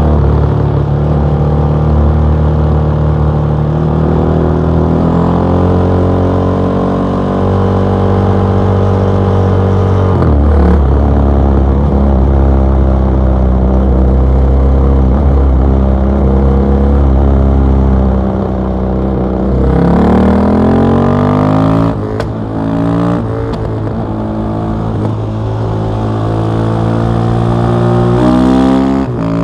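KTM 660 SMC's single-cylinder four-stroke engine through an Akrapovic exhaust, heard from on board while riding. For most of the stretch it holds a fairly steady pitch with a few shifts in revs. About two-thirds in it revs up hard with the pitch climbing steeply, breaks off, then climbs again near the end.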